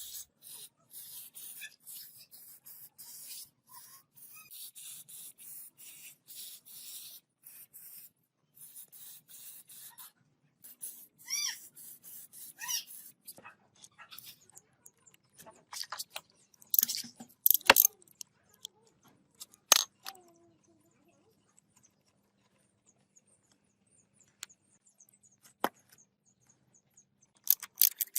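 Hand work on a rusty metal gearbox: a run of short rhythmic scraping strokes, then a few squeaks and sharp metallic clicks and knocks over a faint steady hum.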